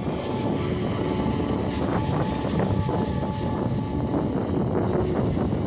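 Wind buffeting the microphone, a loud uneven rumble.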